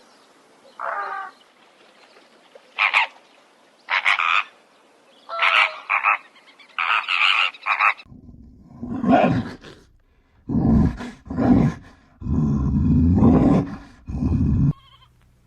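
Animal calls in two passages: short pitched croaking calls repeated about once a second, then about eight seconds in a change to louder, deeper and longer calls, the last one held for over two seconds.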